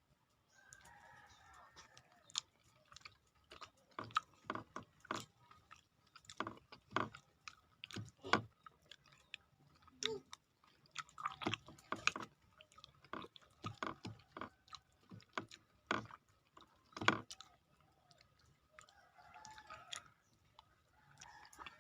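Mouth sounds of someone eating grilled banana close to the microphone: irregular wet chewing and lip-smacking clicks, several a second at times, with short pauses between mouthfuls.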